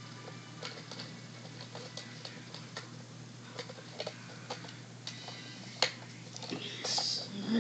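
Irregular small clicks and taps from a die-cast model garbage truck (First Gear Freightliner M2 McNeilus rear loader) being handled, with a sharper click about six seconds in and a brief rustle near the end, over a steady low hum.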